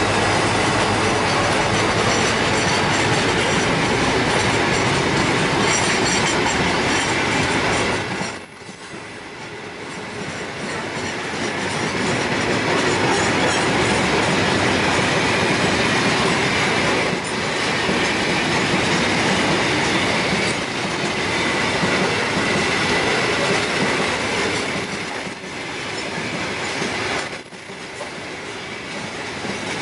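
Container wagons of a long freight train rolling past: a steady loud noise of steel wheels running on the rails, which dips sharply about eight seconds in and again near the end before building back up.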